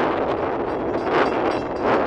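NJ Transit train going by, with a run of sharp repeated clicks starting about two-thirds of a second in. Gusty wind rumbles on the phone's microphone throughout.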